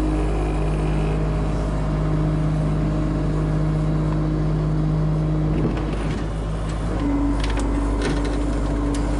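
Motor vehicle engine running steadily with a low, even hum that falls away briefly a little past halfway, then returns, with a few sharp clicks or knocks near the end.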